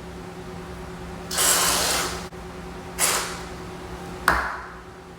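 Aerosol can of whipped cream spraying in two hissing bursts, the first about a second long and the second shorter, followed by a sharp click near the end.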